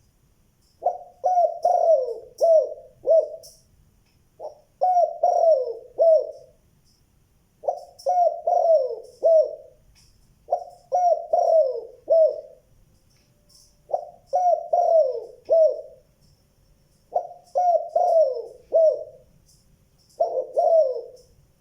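Spotted dove cooing: seven repeated phrases of several low coos each, one phrase about every three seconds. Faint short high chirps sound through it.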